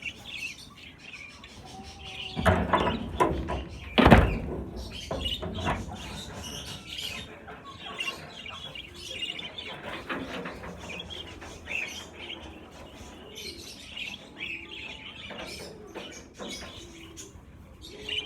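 A flock of budgerigars chattering and chirping continuously. A rustling stretch comes about two and a half seconds in, and a single loud thump about four seconds in.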